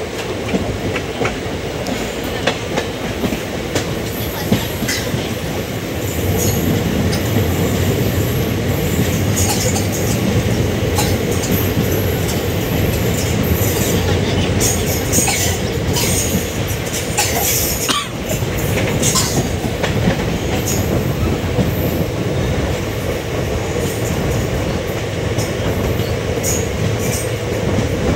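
Express passenger train running along the track: a steady rumble with wheels clattering over rail joints and many brief, sharp high clicks and squeaks. It gets louder about six seconds in.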